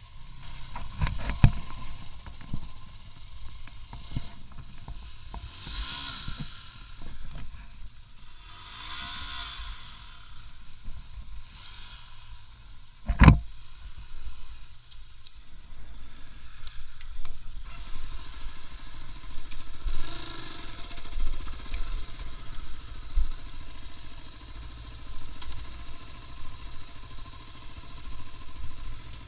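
A vehicle driving over rough, roadless ground: a low rumble with scattered knocks and jolts, and one sharp thump about halfway through.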